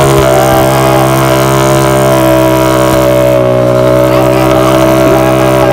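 Yamaha MX King drag bike's single-cylinder engine held at a steady high rev during a rear-tyre burnout, its pitch barely changing.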